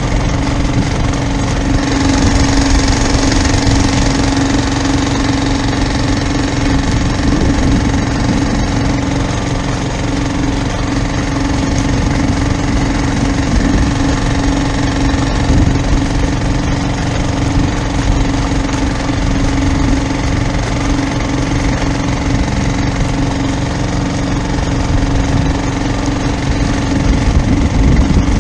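A boat engine running steadily at a constant speed, with a strong steady hum and a rough low rumble beneath it.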